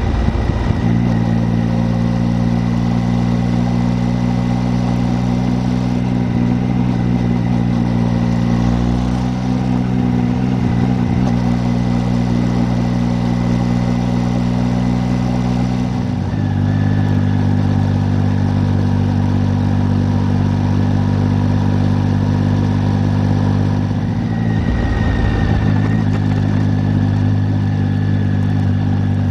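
Triumph Tiger 800's three-cylinder engine running at a steady road speed while riding. The engine note breaks briefly and settles again about halfway through and near the end.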